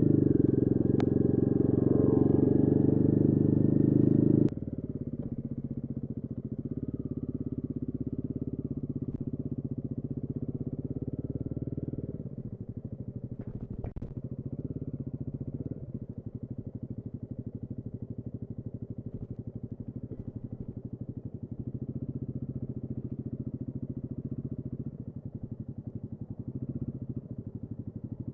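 Royal Enfield Guerrilla 450's single-cylinder engine running, loud for the first four seconds or so. The level then drops abruptly, and drops again about twelve seconds in to a quieter, steady, evenly pulsing run. There is a single sharp click about fourteen seconds in.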